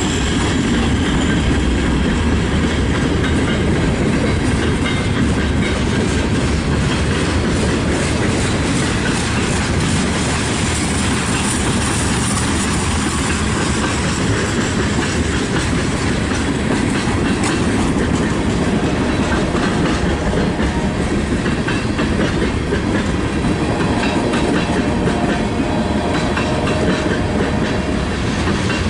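Freight train rolling past at close range, a steady rumble of cars with wheels clicking over the rail joints.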